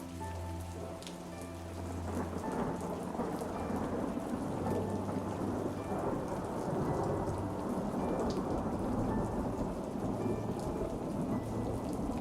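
Steady rain with a low rumble of thunder building about two seconds in and rolling on. Soft held musical notes sit faintly underneath at the start.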